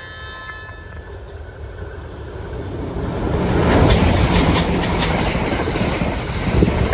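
JR Kyushu 787-series electric limited express passing through a station at speed. A rush of wheel and air noise builds and peaks about four seconds in, with repeated clacking of wheels over rail joints as the cars go by.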